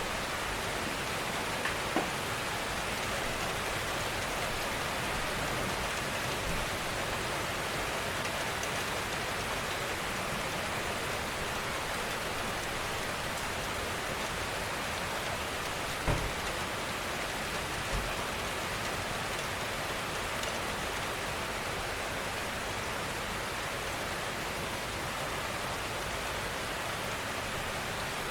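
Steady gentle rainfall, an even hiss of falling rain, with a few brief louder drop taps, twice near the start and twice in the second half.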